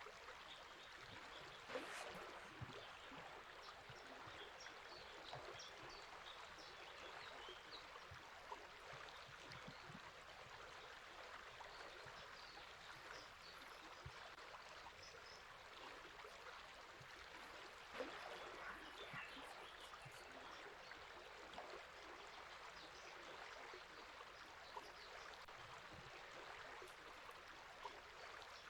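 Faint, steady rushing of a river, with small birds chirping softly and sparsely over it and an occasional brief splash.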